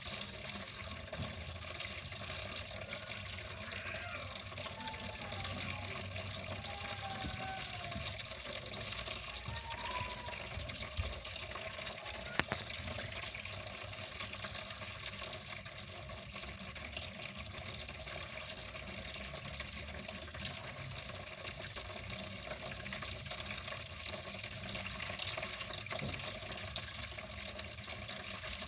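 Water running steadily, like a tap flowing into a sink, with a few faint sliding high tones in the first ten seconds and a single short tick about twelve seconds in.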